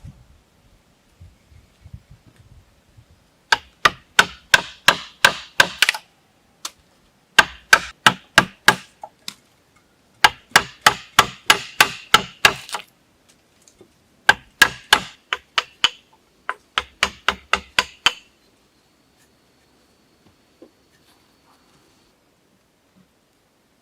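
A tool striking wood in rapid runs of sharp knocks, about five a second, in five bursts with short pauses between, stopping about three-quarters of the way through.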